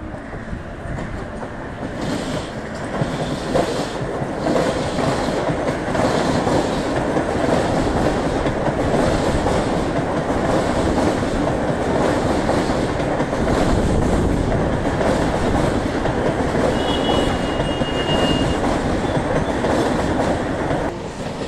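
Mumbai suburban electric local train (EMU) passing close by: a steady rumble and clatter of wheels on the rails, building over the first few seconds and falling away as the last coach goes by near the end. A brief thin high whine comes about three-quarters of the way through.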